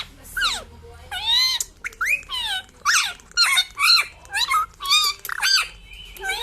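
Pet parrot making a quick run of short squawky, chirping calls that swoop up and down in pitch, about two a second.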